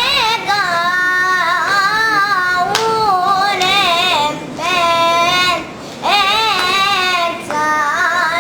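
A boy's high voice singing solo, with no instrument heard, in long ornamented phrases with wavering, quivering pitch, pausing briefly for breath twice.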